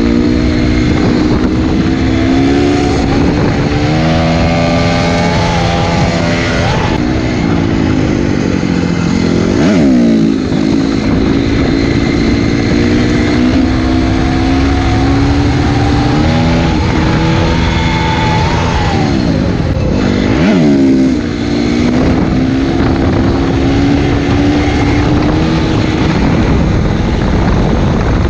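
Honda CRF250R's single-cylinder four-stroke engine under way, its pitch rising and falling with the throttle, dropping sharply and picking back up about ten and twenty seconds in. Heavy wind rush on the microphone runs underneath.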